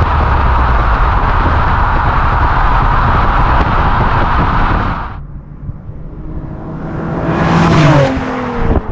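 Infiniti V6 with an HKS aftermarket exhaust driven past hard: a loud, dense exhaust note that cuts off suddenly about five seconds in. A second fly-by follows, building up and passing near the end with its pitch dropping as it goes by.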